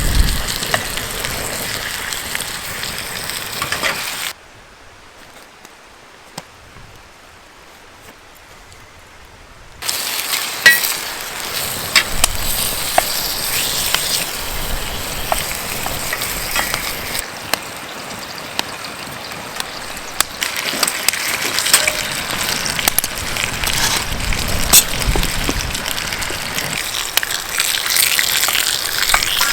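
Thick bacon sizzling and spitting in a pure-iron frying pan over a campfire, with scattered crackles and small clinks. About four seconds in, the sizzle drops away almost to nothing for roughly five seconds, then comes back at full strength.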